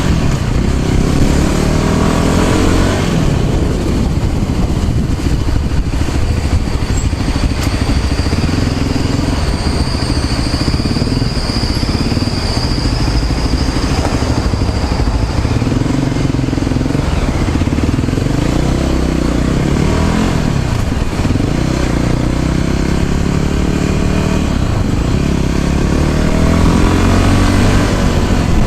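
Small motor scooter engine running while riding, its pitch rising and falling as it speeds up and slows down. A thin high whine sounds for a few seconds in the middle.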